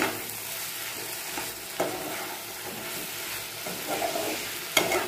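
Soyabean and potato curry sizzling in an oiled kadai as a spatula stirs it through the masala at the kosha stage, frying with a little water. The spatula clacks sharply on the pan three times: at the start, about two seconds in, and near the end.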